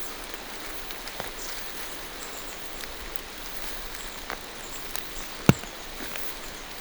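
Steady rain falling through a forest canopy, with a few heavier drops tapping close by, the loudest about five and a half seconds in.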